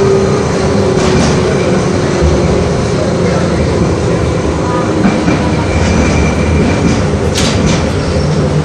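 LVS-86K tram under way, heard from inside: a steady rumble of wheels on rails and running gear, with a faint tone at the start that drops slightly. There are a few sharp clicks near the end.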